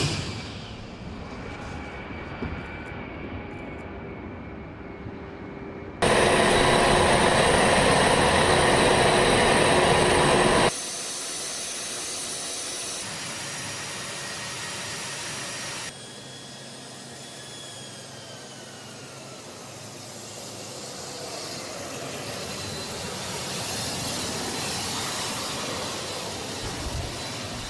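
A-10 Thunderbolt II's twin turbofan engines running, heard in several edited clips that cut abruptly from one to the next. The loudest stretch is from about six to eleven seconds in, and a faint whine slowly shifts in pitch in the later part.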